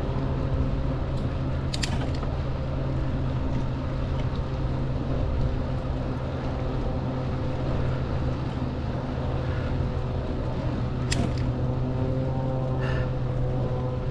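Float plane's propeller engine running with a steady, even drone, with a few sharp clicks over it.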